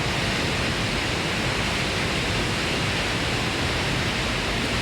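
Steady, even rush of water noise with no breaks.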